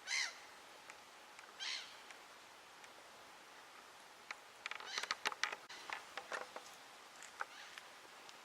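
A bird calling twice near the start, short harsh calls. About five seconds in comes a quick irregular run of clicks and ticks.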